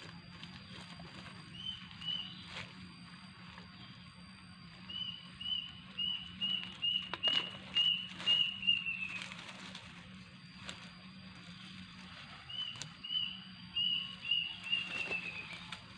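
A bird calling in two series of clipped high notes, about two or three a second, each series ending in a falling run.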